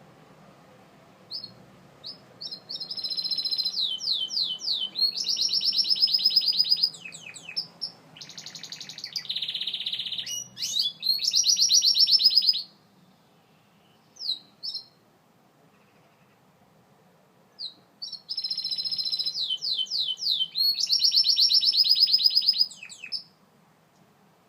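Gloster canary singing: two long bouts of rapid trills and chirps, separated by a pause of about five seconds.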